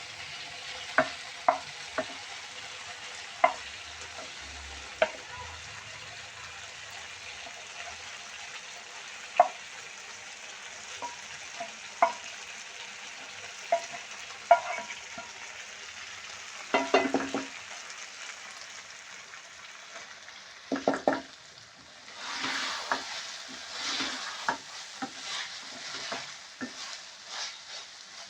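Food sizzling as it fries in a pan, with a metal spoon knocking against the pan every second or two. From about three-quarters of the way through, the stirring turns busy, with rapid scrapes and knocks.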